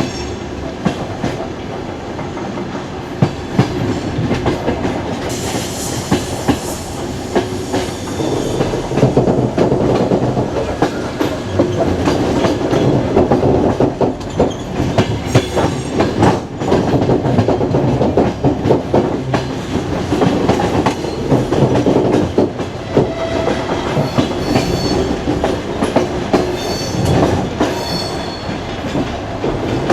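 Passenger train carriage rolling along the rails, heard from the window, with steady running noise and the clickety-clack of the wheels striking rail joints. Short high squeals of the wheels come in now and then in the second half.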